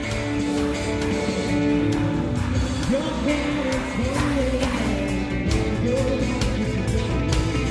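Live rock music with pipe organ and electric guitar: long held organ chords under a lead line that bends and slides in pitch.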